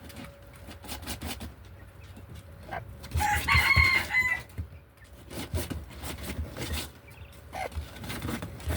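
A bird gives one loud pitched call about three seconds in, lasting about a second and a half, with scattered light clicks and knocks around it.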